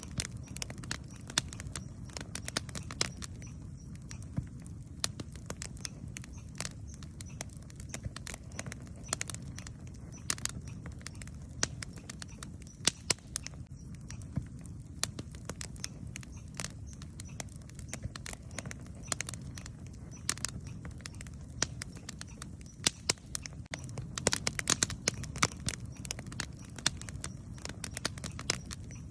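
Wood campfire burning, with a steady low rumble of flame and frequent sharp crackles and pops, which bunch together about twenty-five seconds in.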